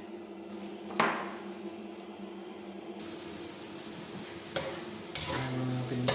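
Metal pots, pans and utensils clanking several times in a kitchen, once about a second in and then three times in quick succession near the end, over a steady low hum.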